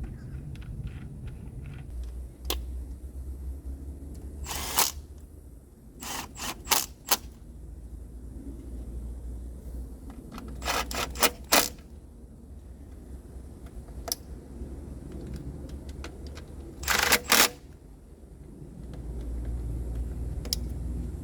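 Hand tools and parts clicking and clattering in short clusters of three or four quick strikes and a few single clicks, over a low steady hum.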